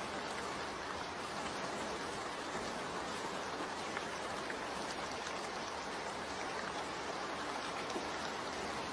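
Steady, even rush of water in a rainforest, stream flow and rainfall blended, with a faint tick about four seconds in and another near the end.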